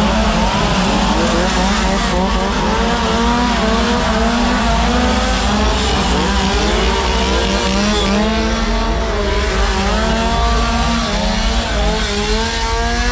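Several chainsaws revving at once, their engines running loudly with pitch rising and falling as the throttles are worked.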